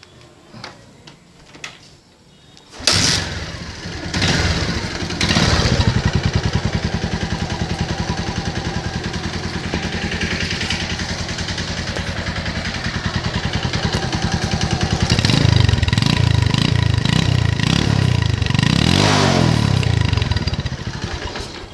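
Bajaj Pulsar 150's single-cylinder four-stroke engine starting suddenly about three seconds in, running steadily, then revved up and down several times in the second half. The engine has a failed cylinder bore.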